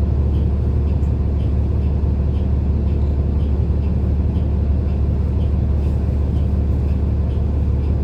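Steady low engine and road drone heard inside a city bus, with a faint regular ticking about once a second.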